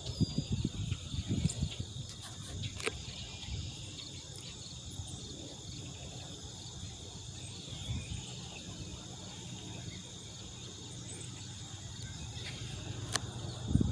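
Steady, high-pitched chorus of crickets or similar insects, with a low rumble underneath and a few faint clicks.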